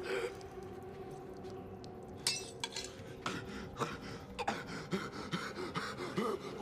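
Scattered clinks and sharp knocks over a low steady hum, with faint voices in the second half.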